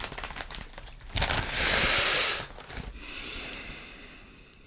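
Crinkling and rustling of a foil snack bag of cheese puffs as it is handled and opened, with one loud burst of crinkling about a second in that lasts about a second, then quieter rustling.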